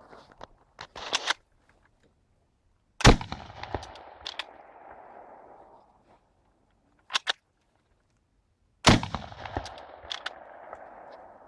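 Two shots from an 11 mm Chassepot needle-fire rifle firing black powder cartridges, about six seconds apart, each a sharp crack followed by a long fading echo. Short clicks come before each shot as the bolt is worked.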